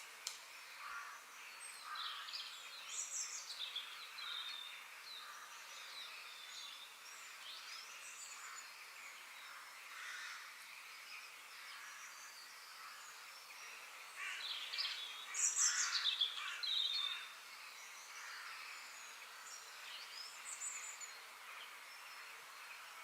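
Birds chirping and calling in many short notes over a steady background hiss, with a louder flurry of calls about two-thirds of the way through.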